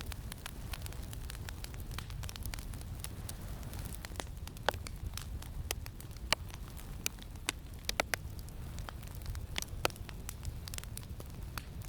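Campfire crackling, with scattered sharp pops over a steady low rumble of wind. The loudest pops come about five, six, eight and ten seconds in.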